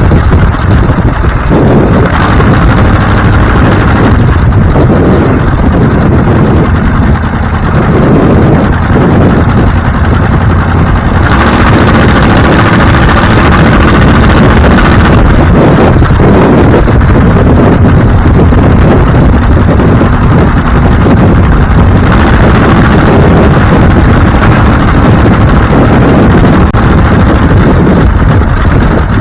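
A vehicle on the move: loud, steady engine and road noise whose engine note shifts a few times.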